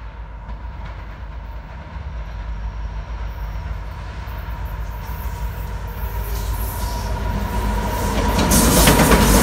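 Union Pacific SD70ACe diesel locomotive, leading Canadian Pacific AC4400CW units on an empty grain train, approaching with a low rumble that grows steadily louder. About eight and a half seconds in, the lead locomotive reaches the microphone and the loud rush of wheels on rail takes over.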